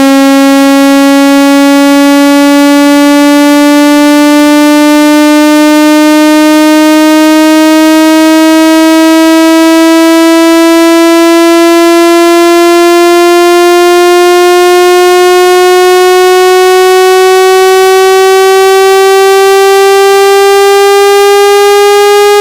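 Loud synthetic speaker-cleaning tone, one pitch rich in overtones, sliding slowly and smoothly upward. It is the kind of tone played through a phone speaker to shake water and dust out of it.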